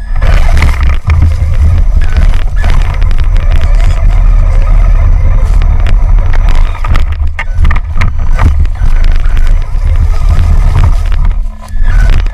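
Traxxas Summit electric RC truck driving over rough forest ground: a loud, continuous rumble with scattered knocks and clatter, briefly dropping off near the end.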